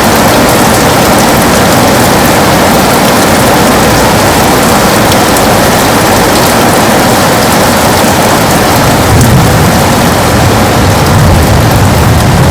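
Heavy rain pattering steadily on a window, a dense hiss of drops. A low rumble swells in under it about nine seconds in.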